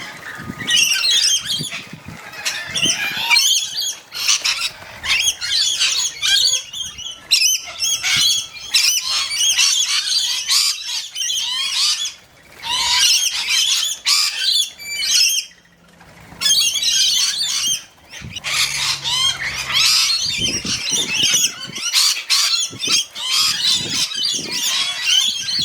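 A flock of parrots screeching and chattering at a feeding spot, many shrill overlapping calls, with wing flaps among them. The din drops away briefly a few times.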